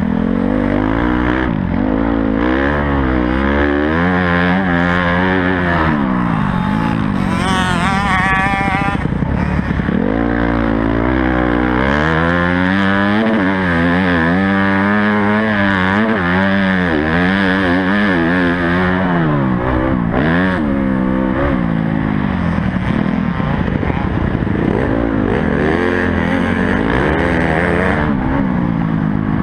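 Honda CRF 250 four-stroke single-cylinder motocross engine revving up and down over and over as the throttle is worked and gears change, with a hard high-rev climb about eight seconds in. A low rushing noise of wind on the microphone runs underneath.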